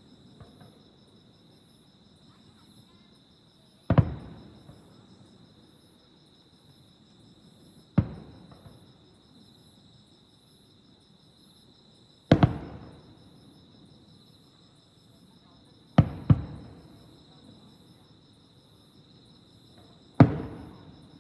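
Aerial firework shells bursting with distant booms, about six in all, roughly every four seconds, each trailing off in a rolling echo, two of them close together near the middle. Between the booms, insects trill steadily and pulse in a regular rhythm.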